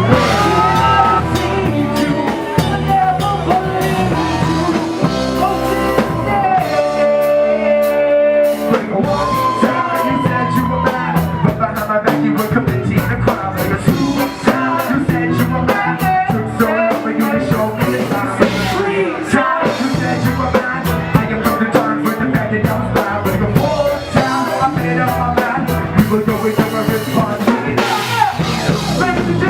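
Rock music with a steady drum-kit beat and guitar, with singing over it.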